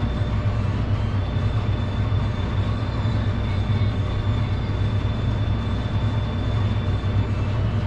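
Steady, fluttering low rumble of wind and rolling noise on a bicycle-mounted GoPro while riding, with a thin steady high whine throughout.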